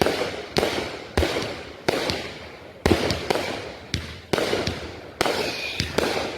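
Consumer fireworks going off in quick succession: about a dozen sharp bangs, roughly one every half second, each trailing off in a crackling decay.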